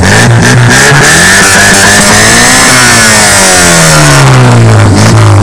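Yugo Koral 55's 1.1-litre four-cylinder engine, breathing through an aftermarket Rapid Junior rear silencer, revved hard: the pitch climbs steadily for about two seconds, then falls back over the next two and settles.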